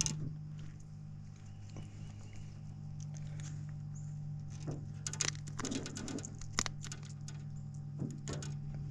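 Scattered light taps, clicks and rattles of a just-caught small bass being handled in a canoe, clustered about five to seven seconds in, over a steady low hum.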